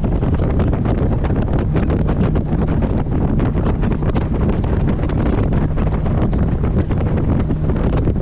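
Heavy wind buffeting the camera microphone on a moving boat, over the steady drone of the boat's engine.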